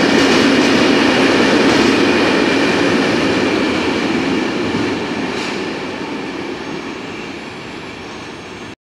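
A train running through the station and moving away, its rumble and rail noise fading steadily. The sound cuts off abruptly near the end.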